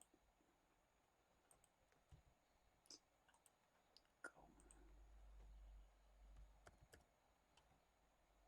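Faint, scattered clicks of a computer mouse and keyboard, irregular and a second or so apart, over near-silent room tone, with a faint low rumble for about two seconds in the middle.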